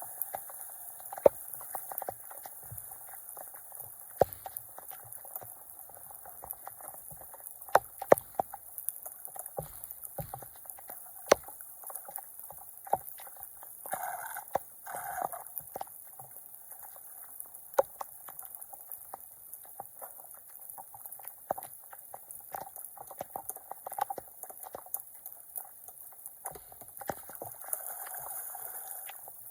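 Floodwater sloshing and gurgling, with frequent short, sharp knocks and splashes scattered throughout and a louder splashing patch about halfway through.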